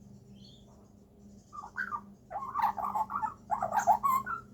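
Young Australian magpie calling in a run of warbling, chattering notes. It starts about a second and a half in, then grows louder in two longer bouts toward the end.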